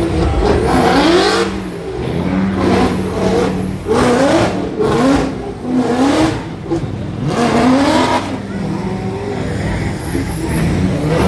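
Truck engines revving over and over in short rising bursts above a steady low idle, with a thin high whine.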